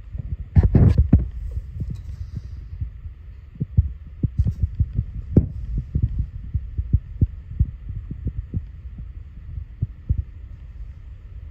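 A 1987 Ford Mustang's 5.0-litre V8 idling with the hood open, heard as a low, uneven throb with thumps several times a second. A louder burst of noise comes about a second in.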